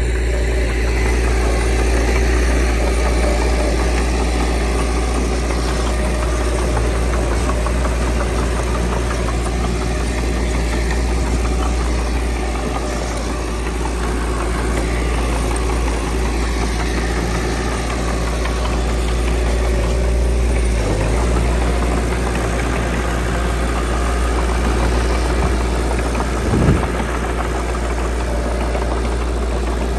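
Diesel engine of earthmoving machinery running steadily under light load, with one short thump near the end.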